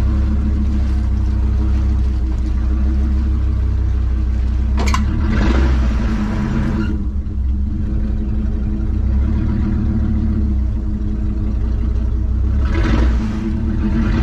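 Pickup truck engine running under load as one vehicle pushes another. There is a sharp knock about five seconds in, followed by a couple of seconds of louder rushing noise, and another swell near the end.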